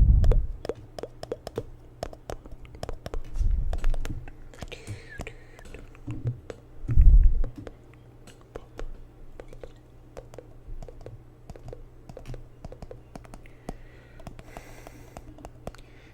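Rapid, irregular tapping and clicking on a jar of water, with a few deep thumps about three and a half and seven seconds in.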